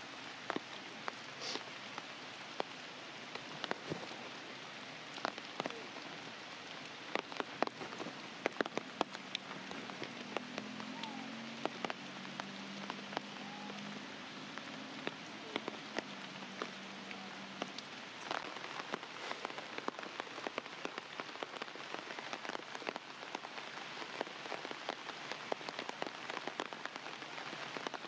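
Steady rain, with many individual drops striking a surface in sharp, irregular ticks. A faint low-pitched sound rises under it for several seconds in the middle.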